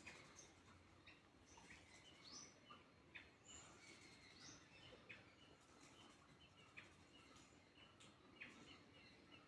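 Faint, scattered chirps and short calls of several small birds, coming a few times a second over a low background hiss.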